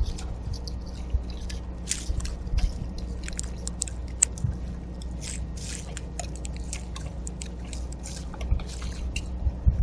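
Seeds being cracked and eaten at a backyard feeder: an irregular scatter of small crunchy clicks and scrapes, over a steady low hum.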